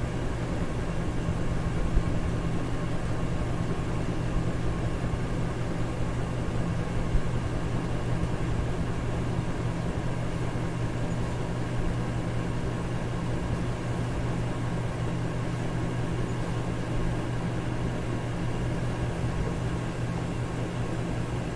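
Electric fan running steadily: an even airy rush over a low motor hum, with no change in speed.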